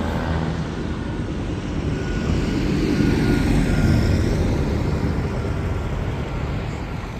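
Tractor engine running as it drives past, growing louder about three to four seconds in and then fading away.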